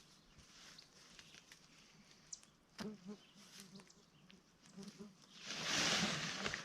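Tent set-up handling noise: light rustles and small clicks and knocks from the nylon fabric and rods. About five and a half seconds in comes a loud rustling swish that lasts about a second.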